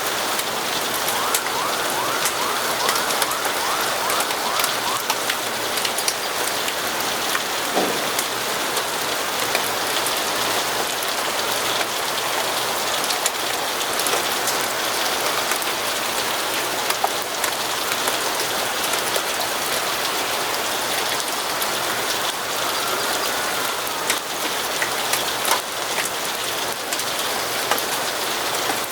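Steady rain falling, with many scattered sharp ticks of drops.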